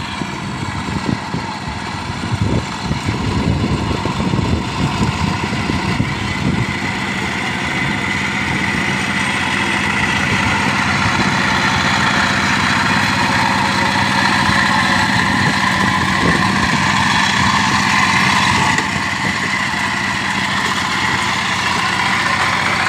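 Tractor engine running steadily while plowing a rice paddy.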